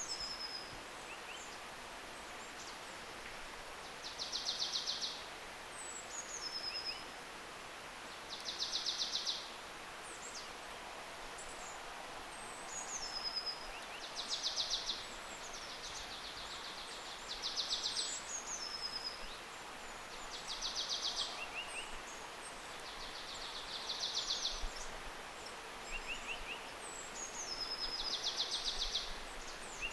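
Songbirds singing in woodland: a high, dry trill of about a second repeats roughly every four seconds, with thin, high descending notes and short runs of ticks between the trills, over a steady background hiss.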